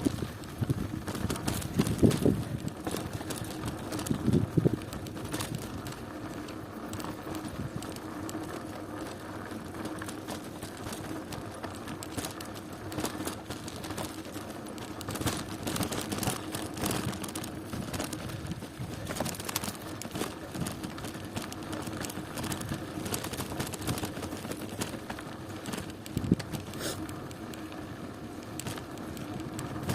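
Bicycle rolling along a rough country road: steady rolling noise and a faint steady hum, with frequent clicks and rattles. There are a few heavier thumps in the first five seconds.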